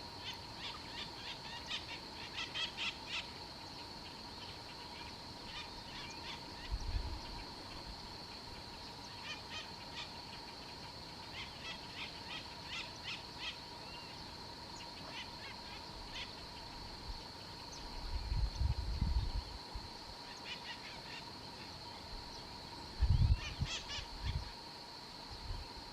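Outdoor ambience: bouts of rapid chattering bird calls recurring every few seconds over a steady high-pitched whine, with a few low thumps, the loudest around 18 and 23 seconds in.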